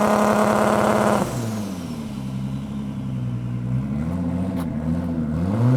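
Race car engine revved and held at high revs, dropping back about a second in with a faint falling whine, then running unevenly at low revs with a couple of short rev blips.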